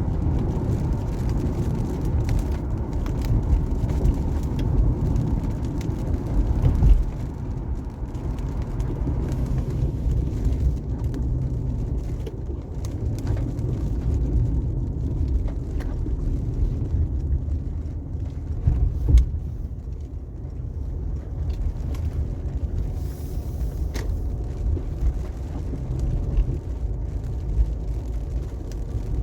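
Car driving on a rain-wet highway: a steady low rumble of tyres and road noise, with scattered faint ticks and a couple of brief louder bumps.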